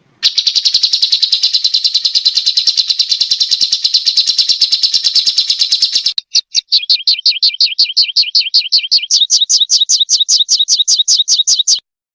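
A small songbird singing a rapid, machine-gun-like trill of repeated high notes (a 'tembakan' burst): a dense trill for about six seconds, then a run of sharper two-part notes that stops abruptly near the end.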